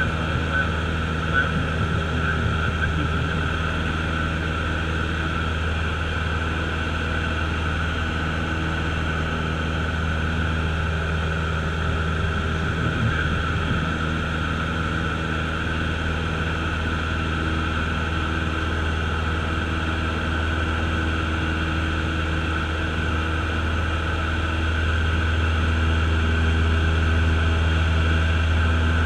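Engine and propeller of a single-engine Cessna running steadily, heard from inside the cabin as a constant drone with a deep hum; it grows a little louder near the end.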